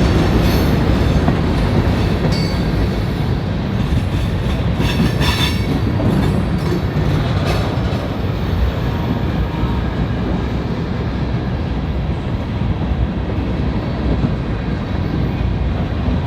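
Railroad cars of a passing train rolling by close, a steady rumble with clacking over the rail joints and faint wheel squeals in the first half.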